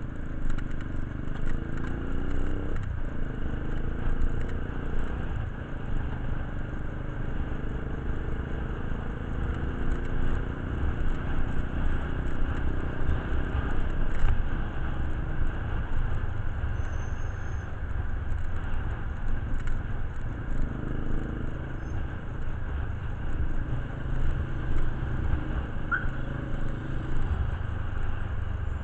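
Motor vehicle engine running steadily with a low rumble, its pitch wavering slightly, with light clinks and scrapes over it.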